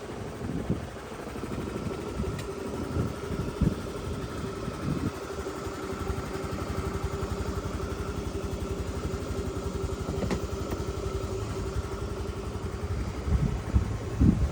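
Honda Today scooter's swapped-in 102 cc Spacy 100 engine idling steadily just after starting, with a few louder knocks near the end.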